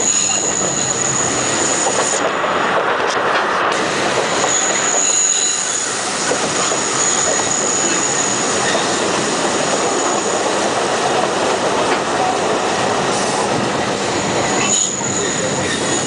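Alishan Forest Railway narrow-gauge train running, heard from inside a wooden passenger carriage: steady rolling and rattling noise of wheels on rail, with a thin high wheel squeal that comes and goes.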